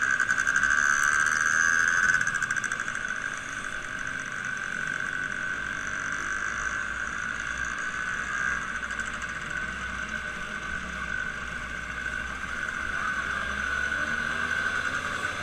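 An engine running steadily, a little louder for the first two seconds, then holding an even note.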